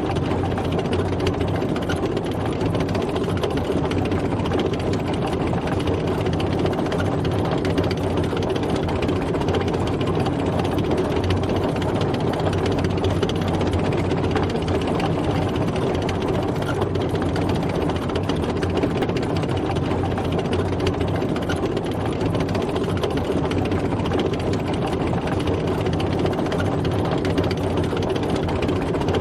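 A tank driving: its engine running steadily, with a fast mechanical clatter over the drone and no change in pace.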